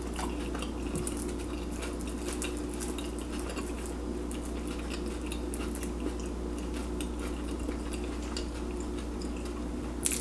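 Close-miked eating at the table: scattered small clicks and taps of chewing and utensils, over a steady low electrical hum.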